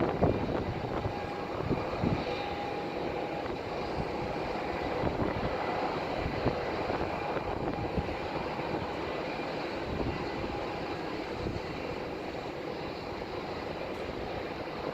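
Airbus A320 jet engines and rushing air noise during landing, a steady rumble with a faint steady whine above it.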